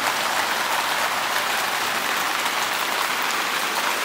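Steady rain coming down and spattering on hard surfaces, a dense even hiss of many drops.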